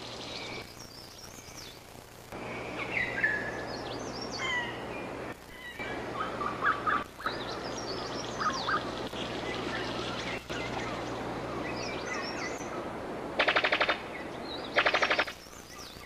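Birds of paradise calling in mountain forest: assorted whistles, chirps and short squawks over a steady forest background with a low hum. Near the end come two loud, rapid, machine-gun-like rattles, each about half a second long: the call of a brown sicklebill.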